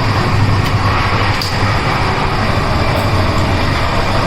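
Passenger train running, heard from inside a 2-tier AC sleeper coach: a steady low rumble and rattle with a few faint clicks.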